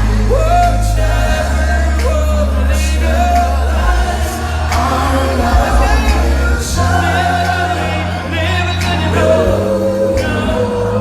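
Live R&B concert music: sustained sung vocal lines over an amplified backing with a steady, heavy bass.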